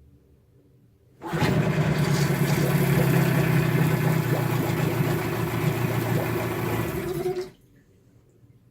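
Yamaha 9.9 two-stroke outboard motor catching at once about a second in and running steadily for about six seconds, then cutting off abruptly. The carburettor has just been adjusted, and the motor starts readily.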